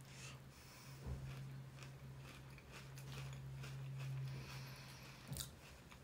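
A person chewing crunchy potato chips close to the microphone: irregular crunches, with a louder one about five seconds in, over a steady low hum.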